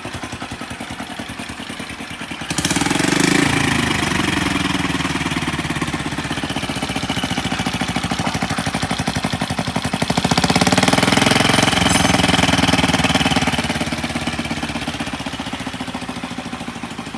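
Honda Solo AC17 moped's small single-cylinder engine running at idle. It is revved up about two and a half seconds in, then again for a couple of seconds around the ten-second mark, settling back toward idle each time.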